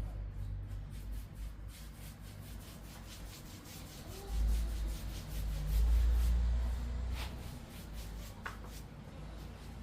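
Walnut-coloured stain being rubbed onto ginkgo wood in quick, repeated strokes, with low handling bumps near the middle.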